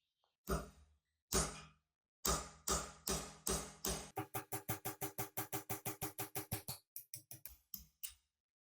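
Metal struck repeatedly with a hammer, each blow ringing briefly: a few spaced single blows, then a quick run of about six taps a second, then a few uneven taps near the end.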